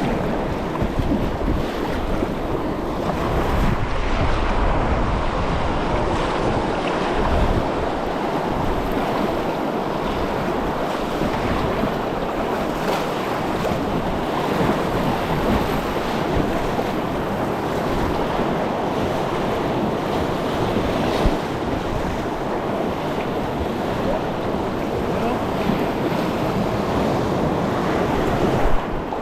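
River water rushing steadily through a stretch of rapids, heard from a packraft, with wind buffeting the microphone.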